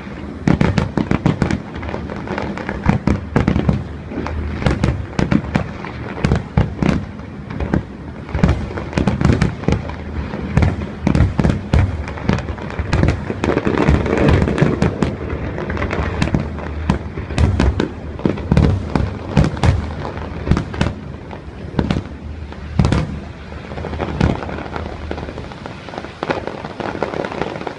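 Aerial fireworks display going off: a dense, rapid string of bangs and crackles over a continuous rumble.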